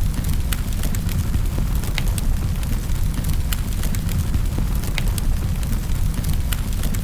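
Wood fire crackling in a fireplace: a steady low rumble of burning, with sharp pops and crackles about once a second.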